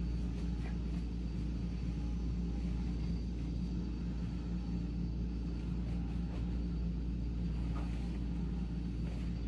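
Vacuum cleaner running steadily in the background: a constant motor drone with a faint high whine.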